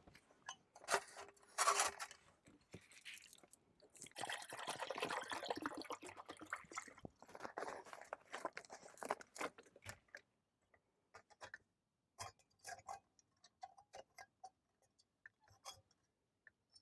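Small clicks, clinks and knocks of camping gear being handled while a compact gas stove and pot are set up. About four seconds in there are several seconds of rushing noise.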